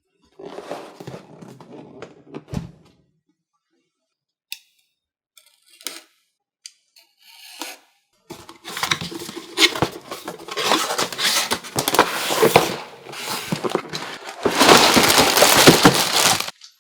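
Packaging being torn open and crinkled. A short burst of rustling comes first, then a few scattered clicks, then long, loud tearing and crinkling that stops abruptly near the end.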